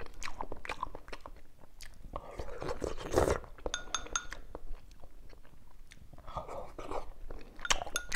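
Close-up chewing and mouth sounds of a man eating cucumber stuffed with minced pork in broth, with many small clicks. There is a brief louder rushing sound about three seconds in, and short ringing clinks of chopsticks against a porcelain bowl about four seconds in and again near the end.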